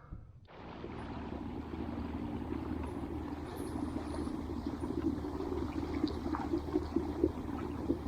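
Kayak under way: water rushing and splashing along the hull with a steady low hum from its electric trolling motor, starting about half a second in.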